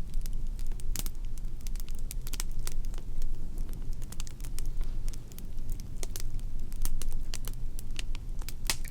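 Fire crackling, with irregular sharp pops and snaps over a low steady rumble.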